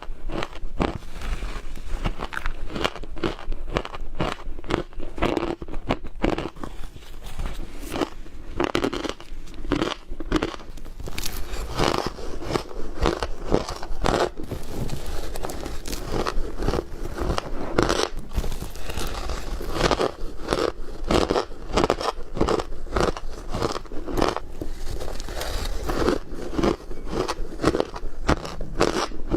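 Ice being bitten and chewed close to the microphone: repeated crunches and crackles, several a second, with squeaky bites.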